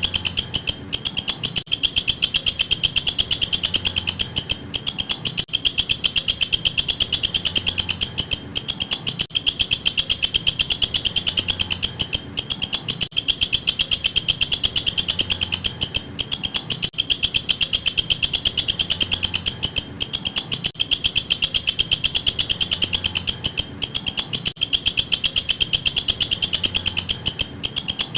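Walang kecek katydid calling: a fast, steady run of high-pitched ticking chirps, broken by brief pauses every few seconds.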